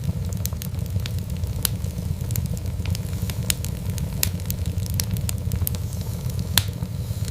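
Wood fire burning, a steady low rumble of flames with irregular sharp crackles and pops, one louder pop near the end.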